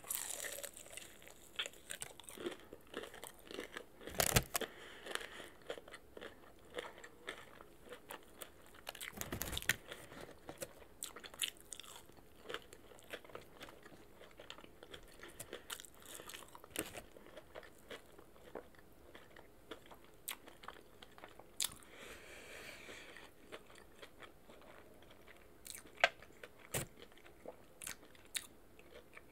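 Close-up chewing and biting as a person eats boneless chicken wings, with crunches and small mouth clicks scattered throughout. A few louder crunches come about four, nine and twenty-six seconds in.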